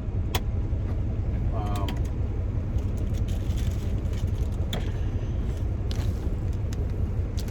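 Steady low rumble of an idling truck, with scattered clicks, knocks and creaks from food and utensils being handled in the cab.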